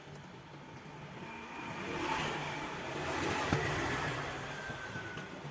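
An engine running steadily, growing louder about two seconds in, with a single short click midway.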